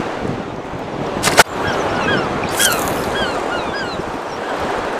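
Birds calling in a run of short, sharp, hooked calls, about two a second, over steady wind and sea noise. A single sharp knock comes about a second and a half in and is the loudest sound.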